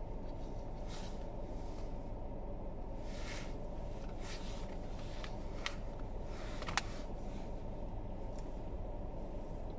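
Steady low rumble, with soft swishing sounds now and then and two sharp clicks a little past halfway.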